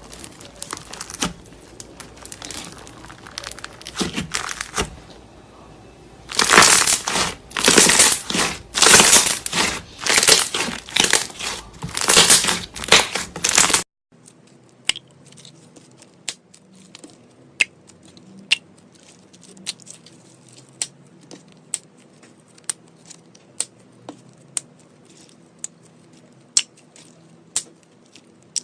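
Slime being squeezed and kneaded by hand, a run of wet squishing and crackling squeezes. After a sudden cut about halfway, it gives way to quieter scattered clicks and small pops.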